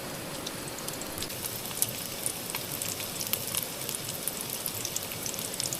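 Sausage and black pudding frying in a pan: a steady sizzle with scattered crackles and pops.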